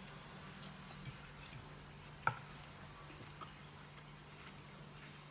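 Faint close-mouthed chewing of a mouthful of lettuce salad, with a few soft wet clicks, the clearest a little past two seconds in, over a low steady hum.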